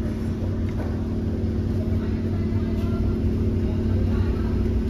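Turbo-diesel car engine idling steadily, a constant low rumble heard close up in the engine bay.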